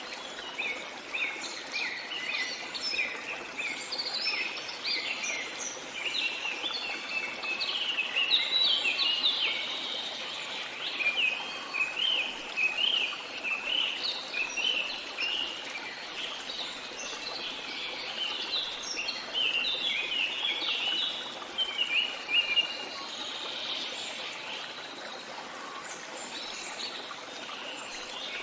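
Songbirds chirping and singing in quick, dense runs of short notes, busiest in the middle and thinning out near the end, over a steady background rush of flowing water.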